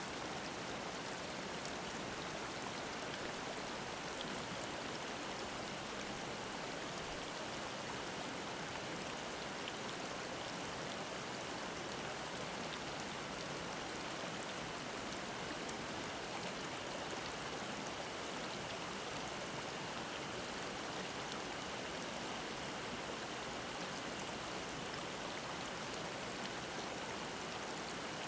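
Mountain stream babbling, a steady, even rush of flowing water.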